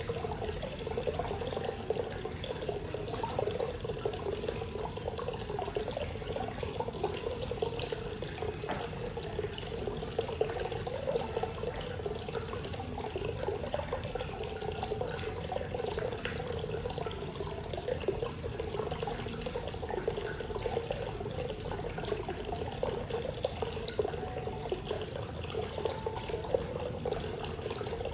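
Hot spring water pouring steadily into a bath, a continuous splashing flow.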